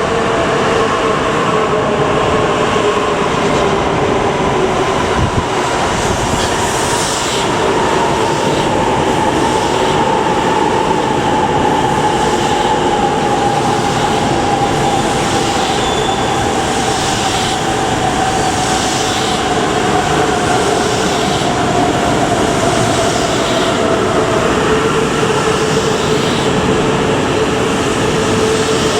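A Shinkansen train pulling in and slowing past the platform: the motor whine slowly falls in pitch, over a steady rumble of wheels, with a regular swish of wheels passing every second or two.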